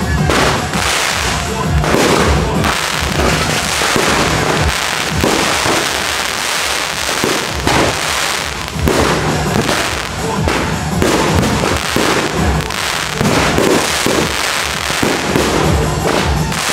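Aerial fireworks shells launching and bursting in quick succession: a dense, continuous barrage of bangs and crackles.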